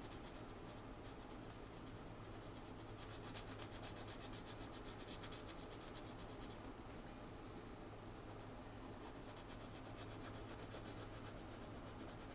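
Pencil graphite scratching on drawing paper in quick, faint back-and-forth shading strokes, louder from about three seconds in until about six seconds and again near the end.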